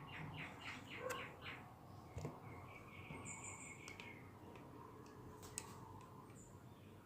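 Faint bird chirping: a quick series of short chirps at first, then a longer held call, with a few sharp clicks between them.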